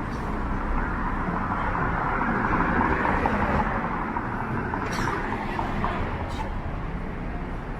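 Downtown street ambience: traffic running by, swelling about two to three seconds in as a vehicle passes, with a couple of short clicks later on.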